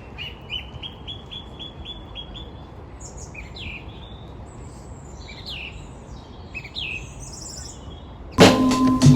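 Songbirds singing over a low, steady background hum: first a run of about nine quick, evenly spaced notes, then varied chirps and trills from about three seconds in. A music beat comes back in near the end.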